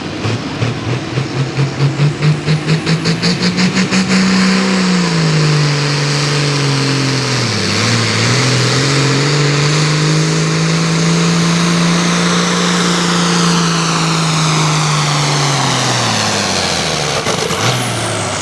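Hot farm pulling tractor's diesel engine at full throttle hauling a weight sled down the track. The pitch climbs with a pulsing beat over the first few seconds, then holds steady with a brief dip. It drops away a couple of seconds before the end as the pull finishes.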